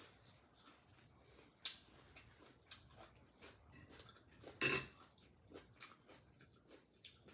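Close mouth sounds of a person chewing steamed chicken: soft, irregular wet clicks. One louder, brief crackle comes a little past halfway.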